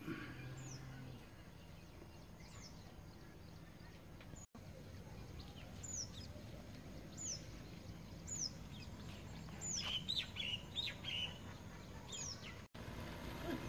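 A bird calling with short, high whistle notes that fall in pitch, repeated every second or two, with a brief run of lower chirps about ten seconds in.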